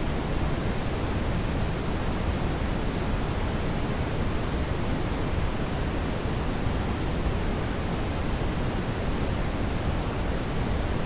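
Steady brown noise: an even, unchanging hiss weighted toward the low end, with no other sounds.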